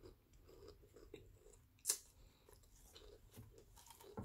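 Faint close-up chewing of food with the mouth closed, soft and fairly regular, with one short sharp crackle about two seconds in.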